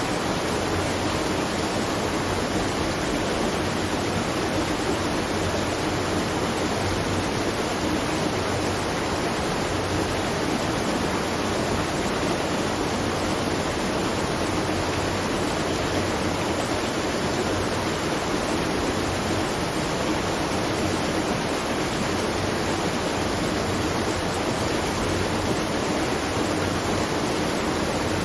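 Steady rushing of water at a watermill, a constant even roar with no breaks or changes.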